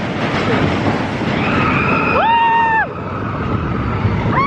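Expedition Everest roller coaster train rushing along its track, a loud steady roar of wind and track noise. About two seconds in a rider lets out a long high scream, and another starts near the end.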